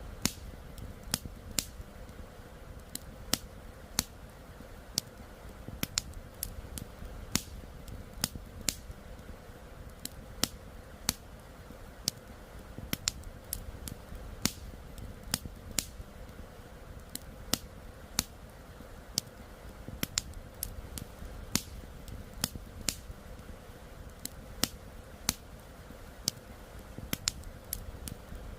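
Wood campfire crackling, with sharp irregular pops about once or twice a second, over the steady low rush of river water.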